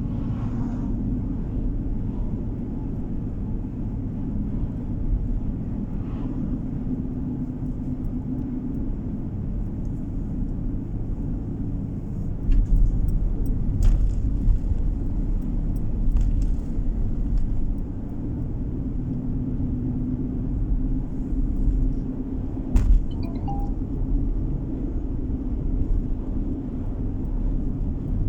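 Steady low road and engine rumble of a car driving, heard inside the cabin. The rumble grows heavier for a few seconds midway, with a few faint clicks here and there.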